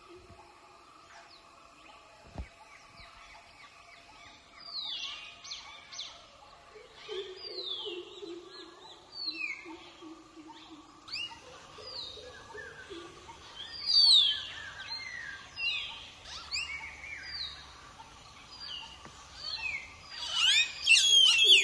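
Wild forest birds calling: from about four seconds in, many sharp whistles that slide downward overlap one another, with lower calls mixed in, over a faint steady hum. The loudest burst of whistles comes near the end.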